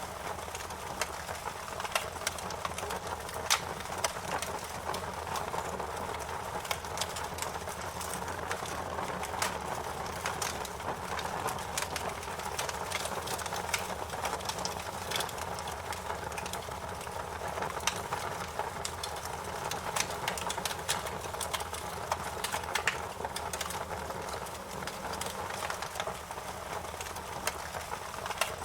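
Wood fire burning in a fireplace: a steady rushing of flames, with irregular sharp crackles and pops from the burning wood.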